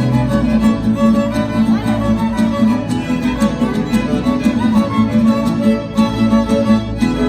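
Live string band playing an instrumental passage: violins carry the melody over strummed guitar and a steady bass line, with no singing.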